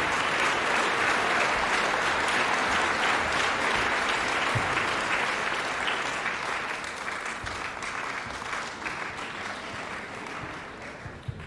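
Concert audience applauding, the applause slowly dying away over the last few seconds.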